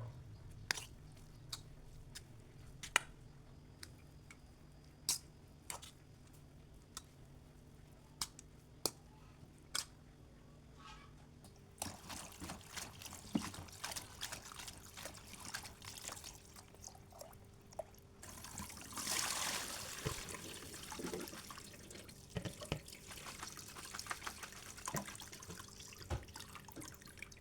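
Water dripping in single drops, then trickling and splashing more busily, with a louder run of water about two-thirds of the way through, as at a kitchen sink.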